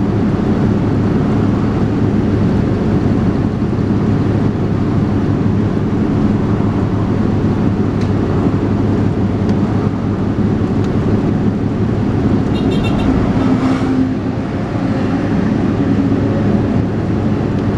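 Dennis Trident 2 double-decker bus engine running steadily under way, a loud low drone heard from on board. About 13 seconds in comes a brief high-pitched ringing or squeal over it, and the engine note eases off just after.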